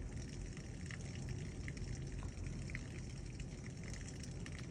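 Heavy thunderstorm rain heard from inside a house: a steady hiss with scattered small ticks of drops striking.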